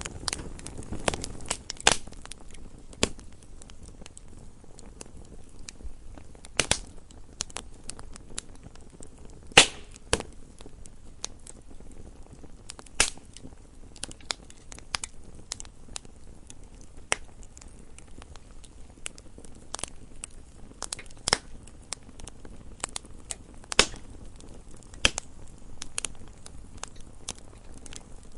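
Wood fire in a fireplace crackling: irregular sharp pops and snaps, a few much louder than the rest, over a faint low hiss.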